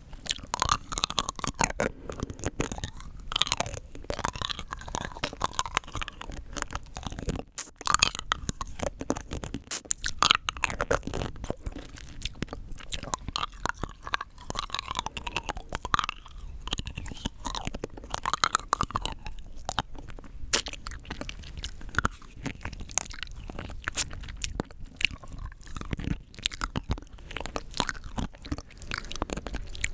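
Rock candy being bitten and chewed close to the microphone: sugar crystals cracking and crunching in a dense irregular run of sharp clicks, with occasional wet mouth sounds.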